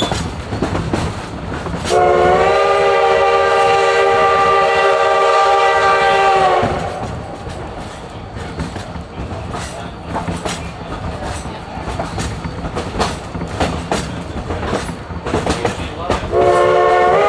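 Steam whistle of Baldwin 2-8-2 locomotive #152 blowing a long chord-like blast of about five seconds, then starting a second blast near the end. Underneath, the passenger car's wheels clatter steadily over the rail joints.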